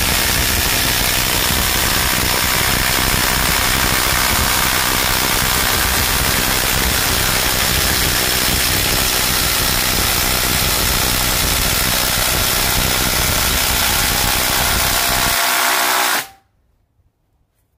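Two Ryobi cordless impact drivers, a brushless PBLID02 and a P238, running loudly together as they bore 1-inch spade bits into wood. The noise is steady throughout and cuts off suddenly about 16 seconds in.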